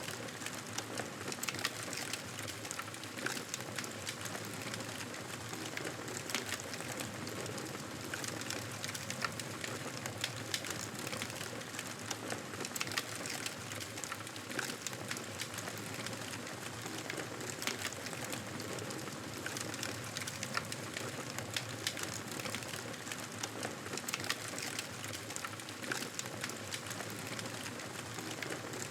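Wood fire crackling in a fireplace: a steady hiss dotted with frequent sharp pops and snaps.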